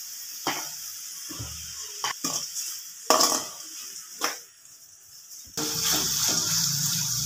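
Shallots and tomatoes sizzling in oil in a pan, with a steel slotted ladle scraping and knocking against the pan a few times as they are stirred. The sizzle gets louder, with a low hum under it, for the last couple of seconds.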